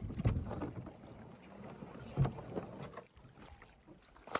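Canoe being dragged over a beaver dam: irregular scraping and knocking of the hull against the dam, with a louder knock a little past two seconds in and a sharp click near the end.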